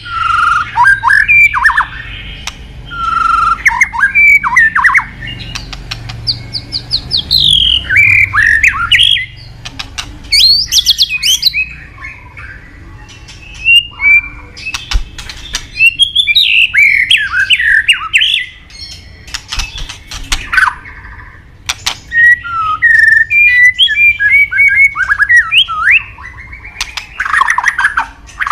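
White-rumped shama (murai batu) singing: a loud, varied song of quick sweeping whistled notes and trills in short phrases with brief pauses between them, with sharp clicking notes mixed in.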